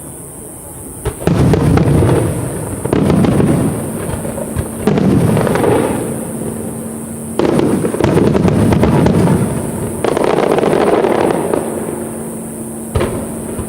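Large aerial firework shells bursting in a display: about five heavy booms, each rumbling on for a second or two, with sharp single cracks at the start and near the end.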